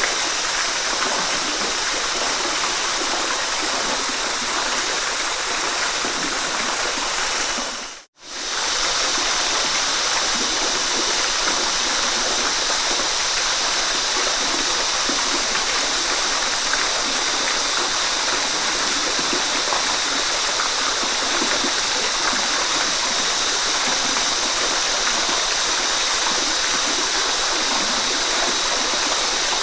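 Waterfall rushing steadily. About eight seconds in it fades out to silence for a moment and comes straight back.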